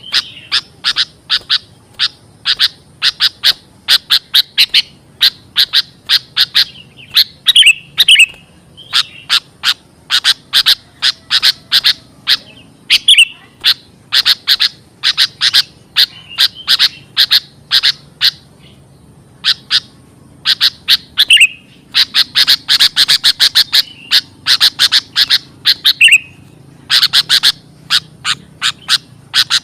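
Sooty-headed bulbul calls used as a lure: loud runs of quick, sharp chirps, several a second, broken by short pauses, with an occasional longer slurred note.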